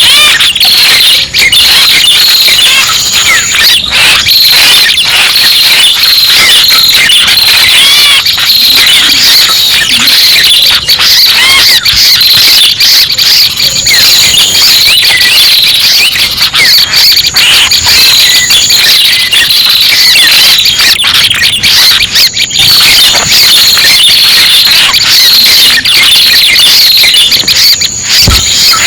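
Bird-lure recording of the small songbird called prenjak pala merah: a dense, unbroken run of high chirps and trills, loud and steady, over a constant high hiss, with a thin high whistle that comes and goes.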